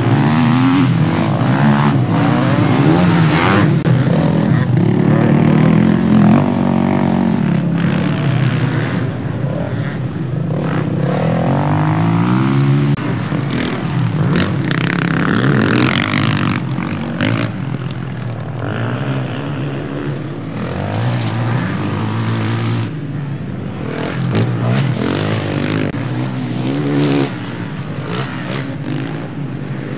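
Several motocross motorcycles racing past, their engines revving up and down through gear changes with overlapping rising and falling pitches.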